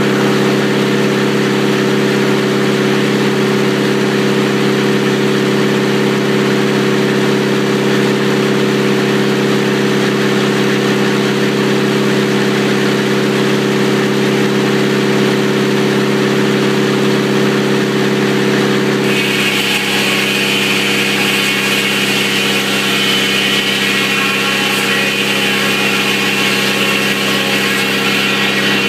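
Sawmill's engine running steadily under power. About two-thirds of the way in the engine note drops and a high whine joins it, as the saw goes into the cut through a telephone pole.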